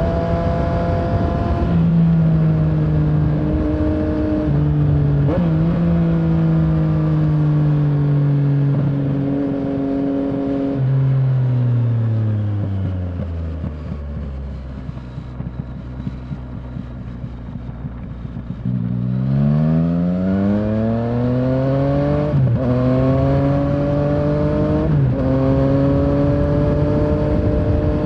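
Yamaha Tracer 900's three-cylinder engine under way, its pitch stepping up and down with gear changes. About halfway through the engine slows to a low idle for several seconds and goes quieter, then it accelerates hard and pulls up through the gears again.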